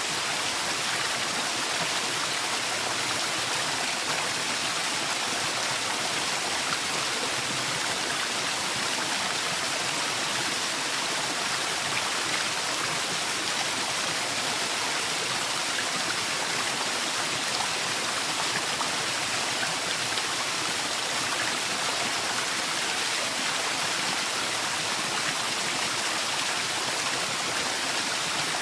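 Waterfall in a forest, a steady rushing of falling water that does not change.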